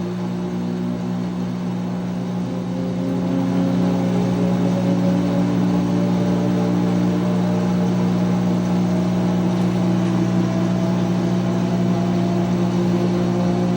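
2006 GE Profile top-loading washing machine spinning its drum back up to speed: a steady motor hum with a whine that rises in pitch and grows louder from a few seconds in, then levels off at spin speed.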